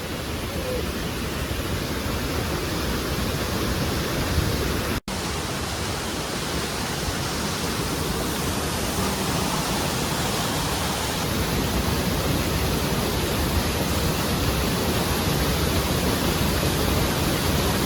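Mailung Waterfall's water falling and rushing, a steady loud noise with no let-up. It cuts out for an instant about five seconds in.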